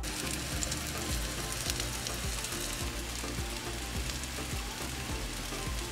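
French toast sticks, thick bread soaked in egg wash, sizzling steadily in coconut oil in a frying pan.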